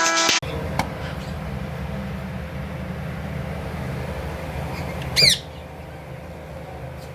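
A parrot gives one short, loud squawk about five seconds in, over a steady low rumble.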